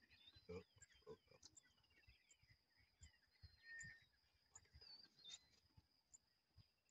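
Faint birdsong: many short chirps and whistles over a steady high-pitched whine, with a few soft low thumps.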